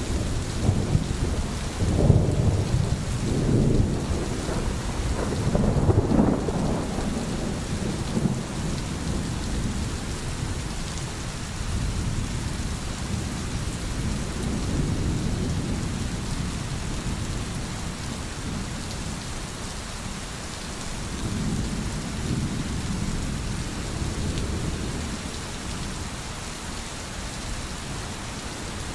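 Steady, heavy rainfall with deep rolling rumbles of thunder, strongest in the first several seconds and swelling more softly twice later on.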